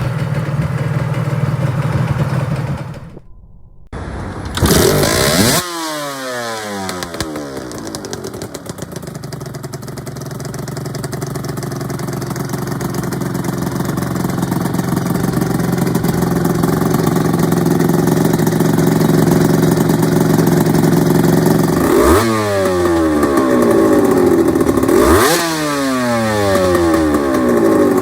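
Honda NSR250R SE (MC28) two-stroke V-twin breathing through ETHOS aftermarket expansion chambers, running at idle and blipped on the throttle. There is a sharp rev about five seconds in, with the pitch sliding back down to idle. After a long steady idle, three quick blips come near the end, each falling back.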